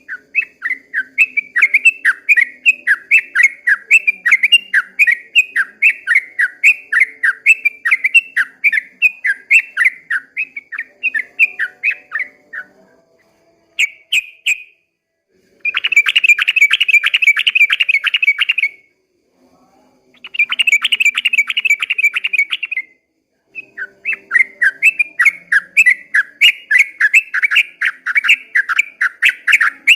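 Yellow-vented bulbul (trucukan) singing a long run of quick repeated chattering notes, about four a second, broken midway by two faster buzzing rattles of about three seconds each before the chatter resumes.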